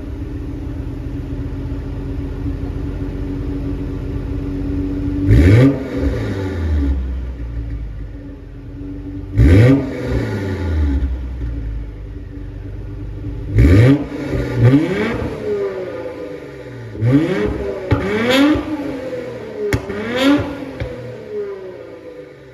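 Nissan Skyline GT-R BNR32's twin-turbo RB26DETT straight-six idling through a Saclam muffler, then revved hard three times a few seconds apart. These are followed by a quicker run of shorter throttle blips, each rev rising and falling back to idle.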